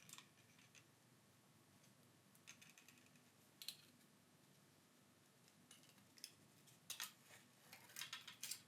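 Near silence with a few faint clicks and taps from handling the phone's replacement screen and frame.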